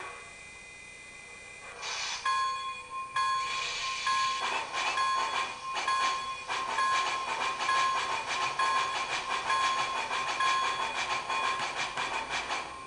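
Sound decoder of an MTH HO Union Pacific Big Boy 4-8-8-4 model playing steam locomotive sounds through its small onboard speaker as the engine starts away. A hiss of steam comes about two seconds in, then a steady run of rhythmic exhaust chuffs.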